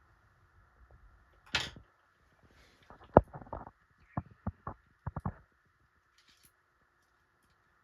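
Hands working on a ceiling fan's switch housing during a pull chain switch replacement: a brief rustle, then a run of sharp clicks and taps of small parts and tools, loudest about three seconds in, over a faint steady hum.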